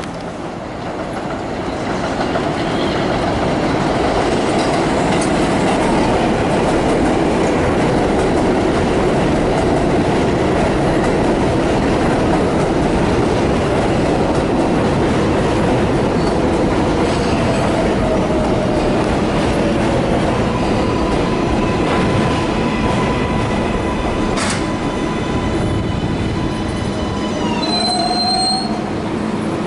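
A train running past on the rails: a loud, steady rumble and clatter that swells about two seconds in, with faint wheel squeal and a tone that slides down in pitch midway. A short high-pitched squeal comes near the end.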